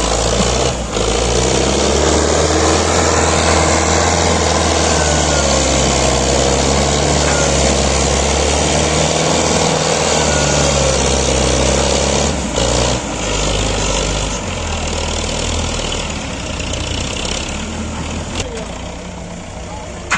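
Heavy diesel engine running steadily under load, then changing pitch and slowly growing quieter in the last third.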